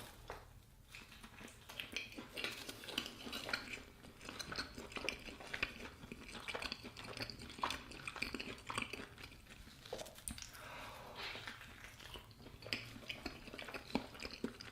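Cutlery clinking and scraping against a plate while cutting into an Adjaruli khachapuri to get at its egg, in faint, irregular clicks, with some chewing in between.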